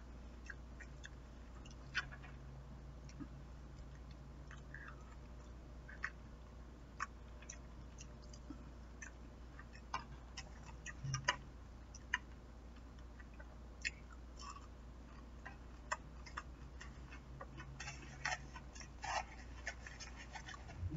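A person chewing food with quiet mouth sounds and scattered small clicks, over a steady low hum. A brief cluster of papery rustling near the end, as a paper napkin is handled.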